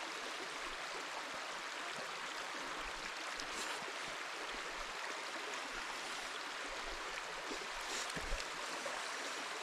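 Steady rushing of a small creek flowing nearby, with a few faint ticks and a soft low knock about eight seconds in.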